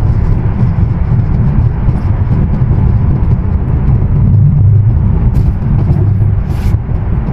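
Steady low rumble of road and engine noise heard inside a moving car's cabin while driving through a road tunnel, with two brief hisses near the end.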